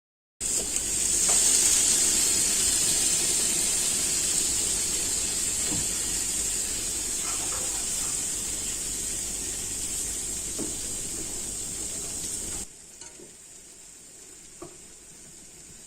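Food sizzling in a hot pan, a steady hiss with a few light clicks of stirring, slowly dying down. Near the end it drops abruptly to a much fainter hiss.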